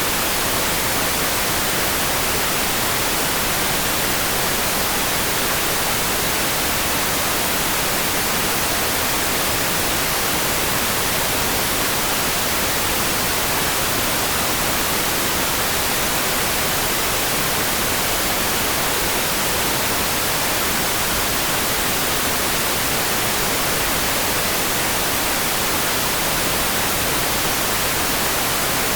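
Steady rain falling, an even hiss with no separate drops, gusts or thunder.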